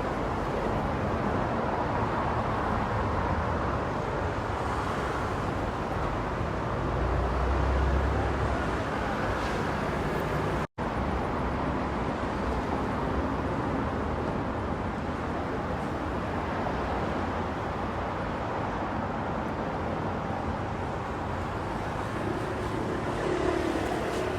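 Car driving on an icy road: steady tyre and engine noise with a low rumble that swells briefly about seven seconds in. The sound cuts out for an instant about ten seconds in.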